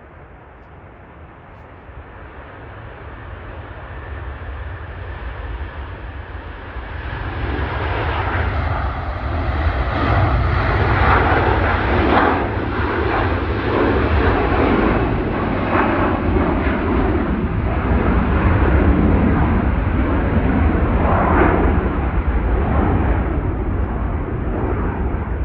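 Airliner engines growing louder over about eight seconds, then a loud, steady roar that holds to the end.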